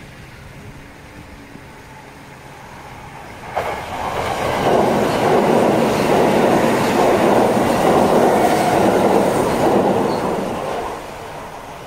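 Kintetsu electric multiple-unit train passing close by: a quiet approach, then a sudden loud rush of wheels on rail about three and a half seconds in that lasts about seven seconds and fades near the end as the train moves away.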